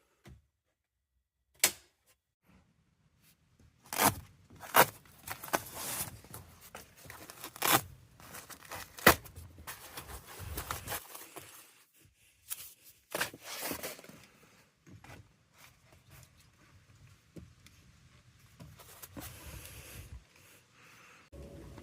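Irregular handling noises while working on the heat pump: a series of sharp clicks and knocks with scraping and rustling between them, thinning out in the second half.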